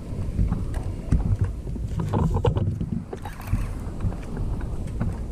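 Water sloshing and slapping against a kayak hull, with wind rumbling on the microphone and scattered small knocks and clicks.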